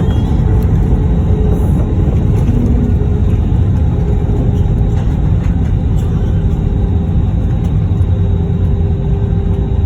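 Airbus A321 heard from inside the cabin during landing: a loud, steady low rumble of engines and airframe, with a faint steady whine above it.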